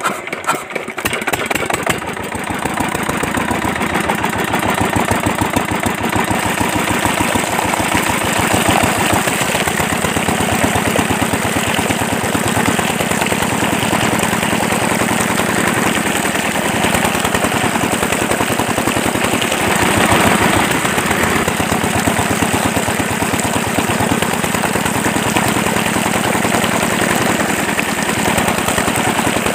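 Home-made miniature model diesel engine running with a rapid, steady clatter of many pulses a second.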